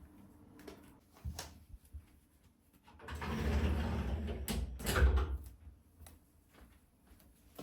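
Household objects being handled: a few light clicks and knocks, then a longer sliding rumble lasting about two and a half seconds that ends in a sharp knock, like a door or drawer being slid and shut.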